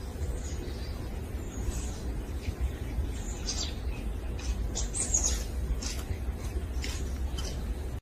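Wild birds calling: short high chirps repeated irregularly, over a steady low rumble.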